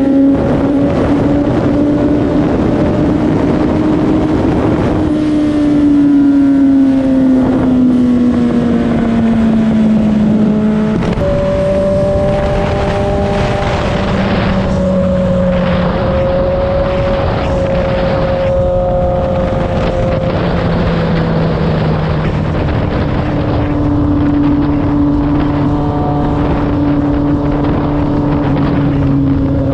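Motorcycle engine running while riding, its pitch sliding down slowly, jumping up about eleven seconds in, then easing and rising again with the throttle and gear changes, over a rush of wind noise.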